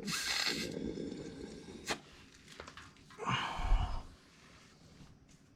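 Air blown by mouth through a motorcycle's disconnected fuel hose into the carburetor to free a stuck float: a hissing burst at the start, then a second, heavier puff a little past three seconds in.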